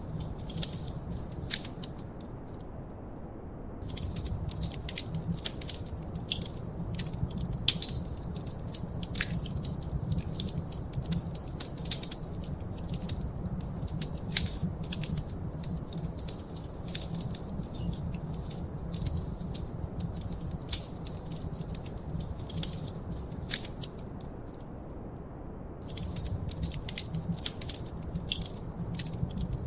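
Wood fire crackling in a fireplace: dense, irregular pops and snaps over a steady low rumble. The crackling drops out briefly twice, about three seconds in and again about five seconds before the end.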